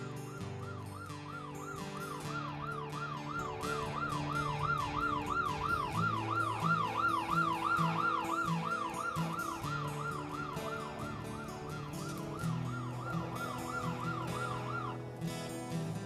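Police car siren in a fast yelp, rising and falling about three times a second. It grows louder through the middle and stops about a second before the end, over low, sustained score music.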